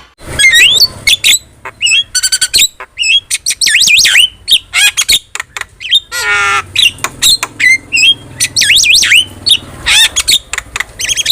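Javan myna (jalak kebo) singing loudly: a rapid, varied run of whistles, rising and falling glides, harsh squawks and short trills.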